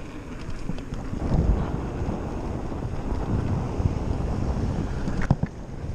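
Wind buffeting the microphone of a camera on a moving mountain bike, a steady low rumble, with a few sharp knocks, the loudest about five seconds in.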